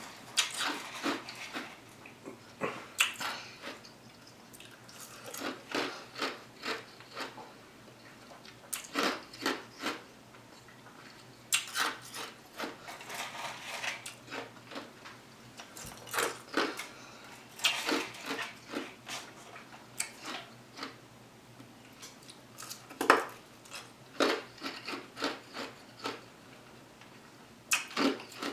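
Close-up eating sounds: irregular chewing and crunching clicks, with the odd tap of a utensil, coming in clusters with short pauses between.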